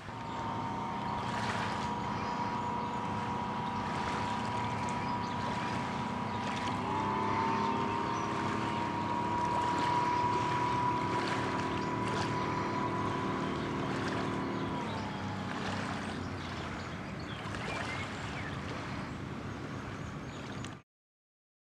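Motorboat engine running out on the lake, holding a steady pitch. Its pitch rises a little about seven seconds in and drops back about fifteen seconds in. The sound cuts off abruptly near the end.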